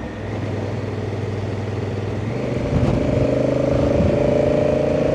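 Honda Africa Twin parallel-twin engine running under way, with wind rushing past. About halfway through, the engine note rises and gets louder as the bike accelerates.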